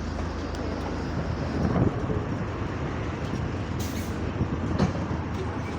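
Diesel bus engine running, heard from inside the bus as a steady low hum, with body rattles, a few knocks and a short hiss about four seconds in.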